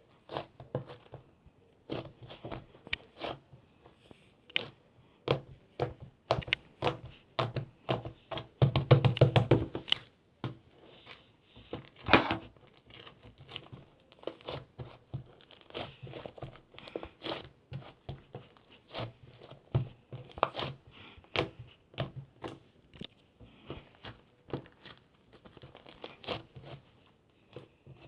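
Clay-type slime being squished and poked by hand, giving irregular crackly clicks and pops, with a dense run of crackling about nine seconds in and a single louder pop a few seconds later.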